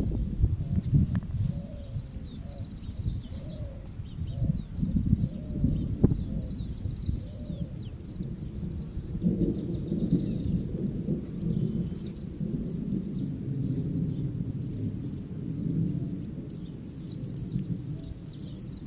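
Several birds chirping and calling, with one short high note repeated over and over, above an uneven low rumbling noise.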